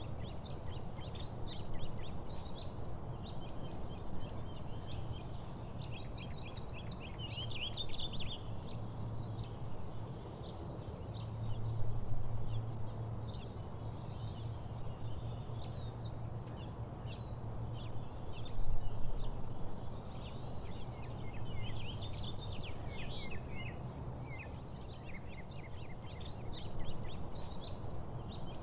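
Several small birds chirping and trilling throughout, over a steady low rumble that swells a couple of times.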